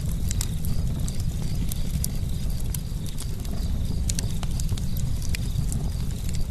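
Campfire burning with irregular sharp crackles and pops of burning wood over a steady low rumble of the flames.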